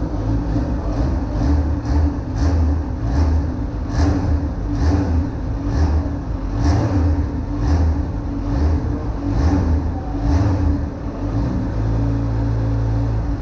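Kawasaki Z H2's supercharged inline-four engine running, with the throttle blipped over and over, about once a second. It settles back to a steady idle near the end.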